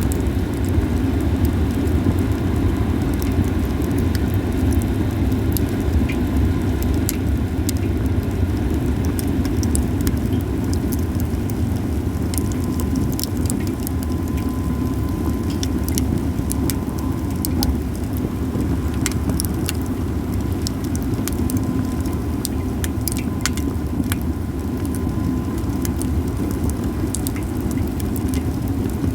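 Japanese cedar campfire crackling, with many sharp pops scattered through it over a steady low rumble. A faint thin hiss comes and goes in the middle.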